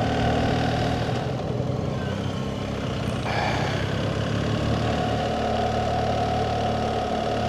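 BMW GS Adventure's boxer-twin engine running steadily while riding at an even speed, with wind rushing over the helmet microphone.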